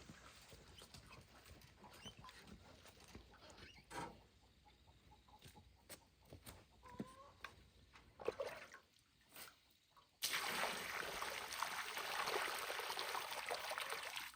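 Scattered small knocks and clicks with a few short squeals from wild boars. About ten seconds in, a loud steady rushing hiss starts suddenly and cuts off at the end.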